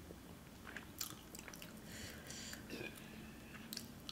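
Faint close-up eating sounds: chewing with a few short wet mouth smacks and clicks.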